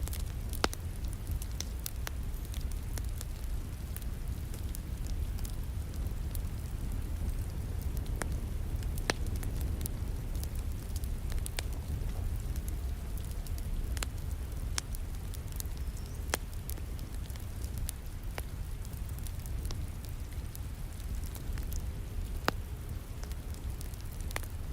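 Wood fire crackling in a fireplace, with sharp irregular pops and snaps over a steady low rumble, mixed with a steady hiss of falling rain.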